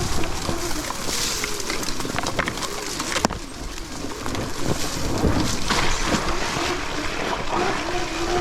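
Sur-Ron Ultra Bee electric dirt bike being ridden off-road: a steady rush of riding noise with rattles and clicks over rough ground, and one sharp knock about three seconds in. The electric motor's whine is heard only near the start and again at the very end.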